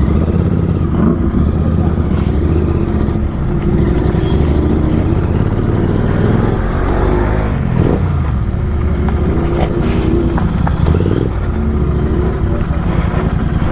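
A Kawasaki Z900's inline-four engine running through an SC-Project aftermarket exhaust while riding, its pitch rising and falling with the throttle.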